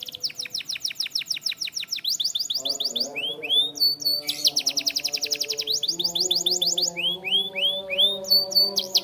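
Canary singing: fast trills of rapidly repeated notes, about ten a second, broken twice by short runs of curved, swooping whistled notes before the trill resumes.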